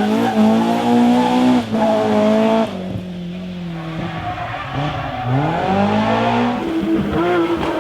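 Historic rally car engine at high revs, with a quick gear change about two seconds in, dropping away a second later; then engine revs rise and fall again as a car accelerates.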